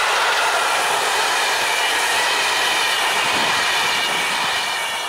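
Passenger coaches of a PKP Intercity train running past on the rails, the wheels clattering with a faint squeal as the train takes the curve. The sound eases off slightly near the end as the last coach moves away.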